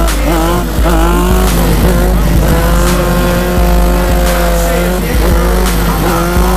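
Sportbike engine revving in repeated rising sweeps, with a longer steady pull in the middle, as the rider holds the bike in a wheelie. A deep bass line runs underneath.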